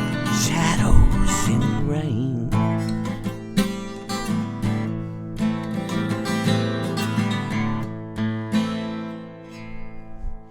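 Acoustic guitar strumming the song's closing chords, the sound thinning out and dying away near the end.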